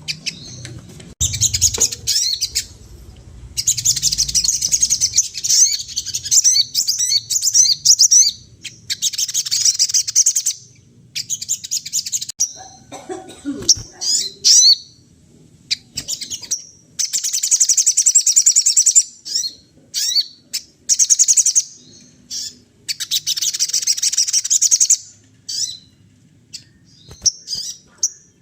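A sogon songbird singing in full voice: rapid, high twittering phrases a few seconds long with short pauses between, a varied song that mixes in the calls of other birds.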